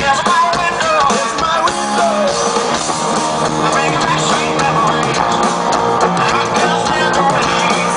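Rock music: a band with guitar and drum kit playing, with a bending melodic line in the first two seconds.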